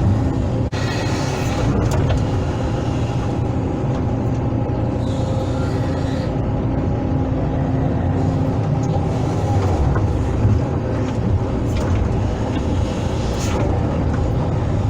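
Hydraulic excavator's diesel engine running steadily under load, with a few brief knocks.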